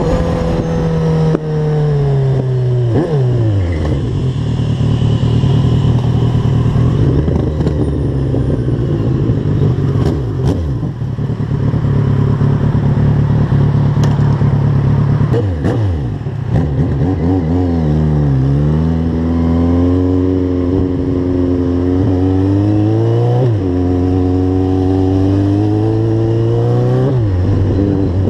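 Motorcycle engine pulling through the gears and easing off, its pitch climbing and then dropping sharply several times as the throttle opens and closes, with a few sharp clicks near the middle.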